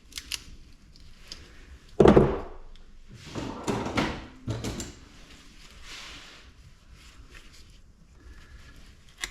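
Metal scrap parts being handled on a workbench: a heavy clunk about two seconds in, then a stretch of clattering and scraping, with lighter knocks around it.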